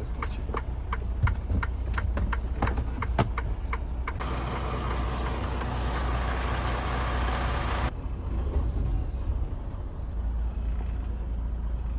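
Steady low drone of a semi-truck on the move, with short clicks in the first few seconds. A loud hiss starts about four seconds in and stops suddenly about four seconds later.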